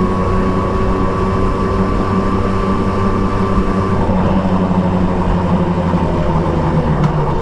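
Triumph Trident 660's inline three-cylinder engine with an Akrapovič exhaust running steadily under way, with a rush of wind noise. About four seconds in the engine note shifts, and near the end it dips briefly before picking up again.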